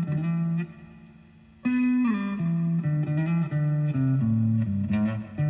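Background music: a plucked guitar playing short descending note phrases, with a brief pause about a second in.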